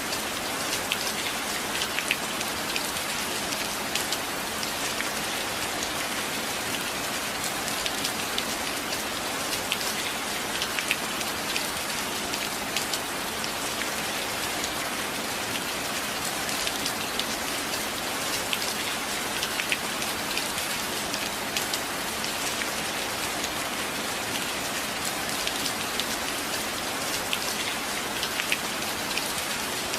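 Steady rain falling, a dense even hiss with many individual drop hits standing out as sharp ticks.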